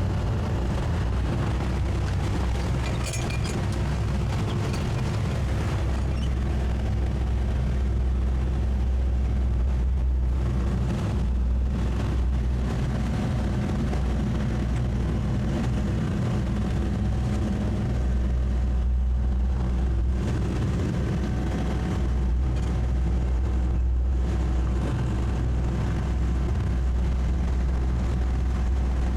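Twin 200 hp Suzuki four-stroke outboard motors running steadily under load, pushing or pulling a heavy yacht under tow: an even low drone with no change in pitch.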